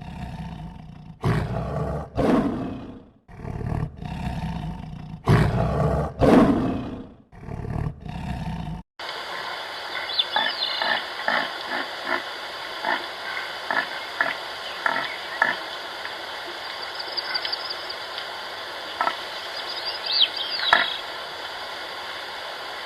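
A big cat roaring, a run of long, deep roars one after another. About nine seconds in it gives way abruptly to a steady hiss with a string of short, soft calls and a few high chirps.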